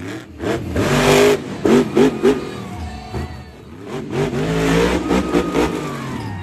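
Monster truck engine revving hard in repeated bursts, its pitch climbing and dropping, with a cluster of quick throttle blips about two seconds in and a longer rev near the end.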